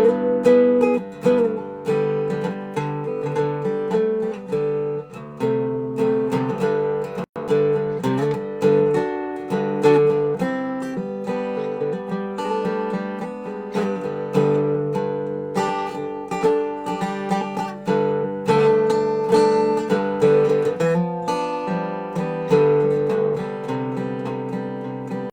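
Dobro (resonator guitar) played solo in a blues jam: a steady run of picked notes ringing over sustained low strings. The sound drops out for a split second about seven seconds in.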